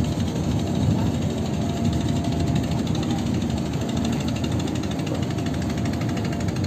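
Ferry's engine running steadily, a loud low drone with a fast, even rattle.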